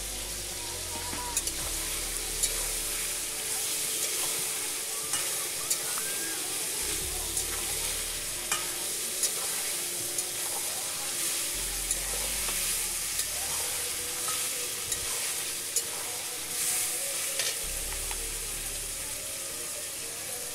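Potato pieces and mutton frying and sizzling in oil in a steel wok, stirred with a metal spatula that clicks and scrapes against the pan every second or so.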